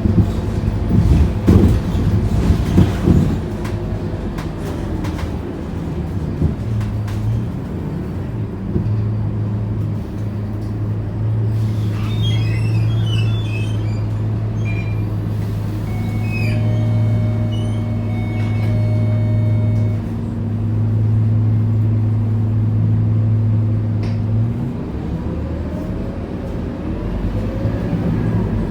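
Interior of a Scania K230UB bus: knocks and rattles at first, then the five-cylinder diesel running steadily at idle with a low hum while the bus stands. A few electronic beeping tones sound in the middle, and near the end the engine revs up rising in pitch as the bus pulls away.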